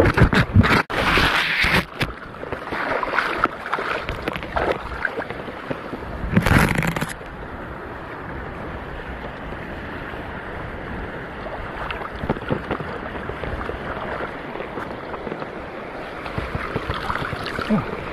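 Shallow sea water splashing and sloshing, with loud bursts in the first two seconds and again about six seconds in, then a steady wash of water.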